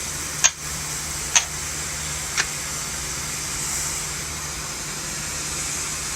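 Shower water spraying in a steady hiss, with three short sharp clicks in the first two and a half seconds.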